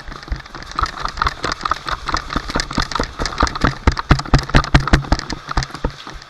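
Airsoft guns firing in rapid full-auto bursts, a fast train of sharp clicks and pops that grows loudest about three and a half to five seconds in.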